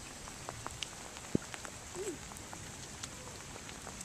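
Light rain falling, a steady hiss with scattered drips and taps. A brief faint voice is heard about two seconds in.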